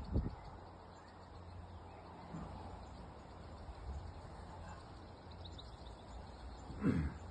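Faint birdsong with a quick run of high chirps about two-thirds of the way through, over a steady low rumble of distant traffic. A brief low thump just after the start and another near the end.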